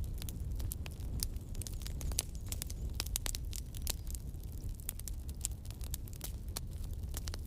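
Campfire burning, wood crackling and popping irregularly over a low steady rumble of the flames.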